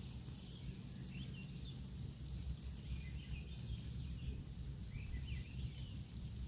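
Campfire crackling, with scattered sharp pops over a low steady rumble, while small birds chirp in short rising and falling notes throughout.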